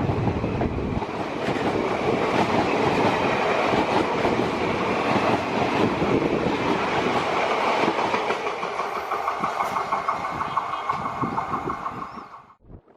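Passenger train running at speed, heard from on board: a steady rumble and clatter of wheels on the rails. About eight seconds in a pulsing, higher-pitched tone joins the noise; the sound drops away sharply near the end.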